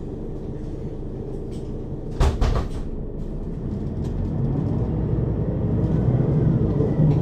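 Mercedes-Benz Citaro city bus heard from inside over the second axle: the engine idles steadily and a short clatter of knocks comes about two seconds in. Then the engine rises and the bus pulls away, with faint gliding whines from the ZF Ecomat 2 automatic gearbox.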